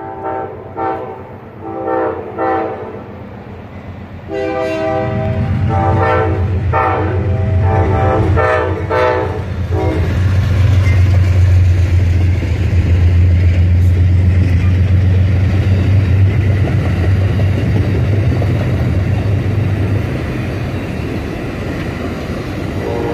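Amtrak passenger train passing close by, sounding its horn in several blasts, a couple of short ones and then a longer broken series, while its diesel locomotive's heavy rumble comes in and then eases as the bi-level passenger cars roll past. The horn sounds again near the end.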